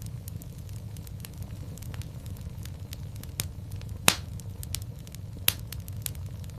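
Fire in a fireplace crackling, with many small irregular snaps and two louder pops, about four and five and a half seconds in, over a steady low rumble.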